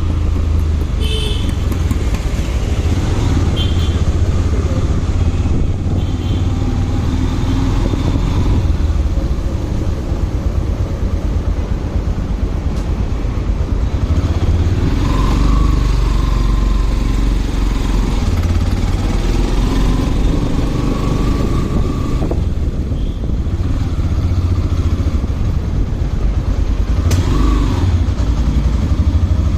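Motorcycle being ridden on the road, its engine running with a steady low rumble mixed with road and wind noise.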